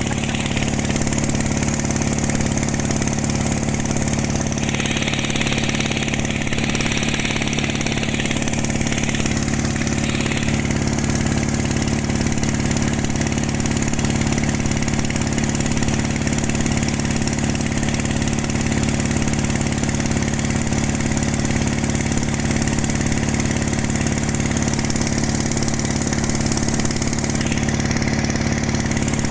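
Single-cylinder "1115" diesel engine of a pompong motorboat running steadily, with a few short hissing noises about five to ten seconds in.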